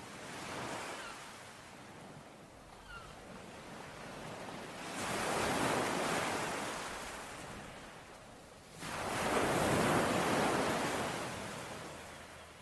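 Sea waves breaking on a shore, two waves about four seconds apart: the first builds up about five seconds in, the second arrives suddenly nearer the end, and each washes out and fades. A few faint bird chirps sound in the first few seconds.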